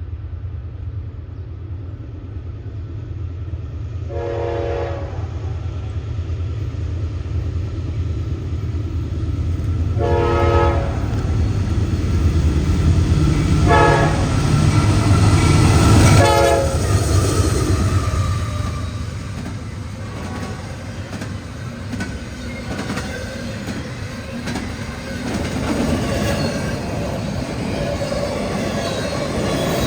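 Train horn sounding the grade-crossing signal as the train approaches: two long blasts, a short one and a final long one whose pitch drops as the locomotive goes by. Over a low, steady rumble that swells to a peak with the horn, the train then passes with wheels clacking over the rail joints.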